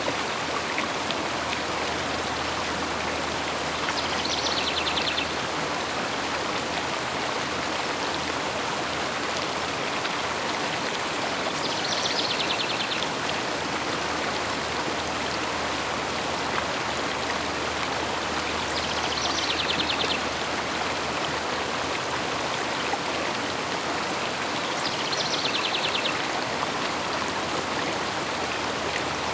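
River water flowing steadily. A bird's short high trill comes in four times, about every seven seconds.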